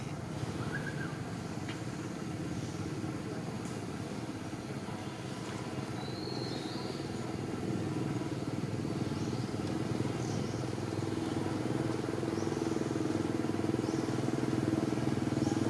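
Steady low drone of a motor vehicle engine running, slowly growing louder over the second half, with a few faint short high chirps.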